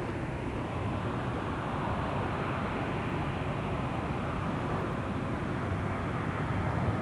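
Jet airliner's engines at takeoff power: a steady rushing noise with no breaks.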